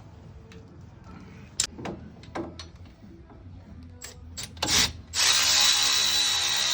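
A few sharp metal knocks and clinks of tools, then a power tool starts about five seconds in and runs loudly and steadily.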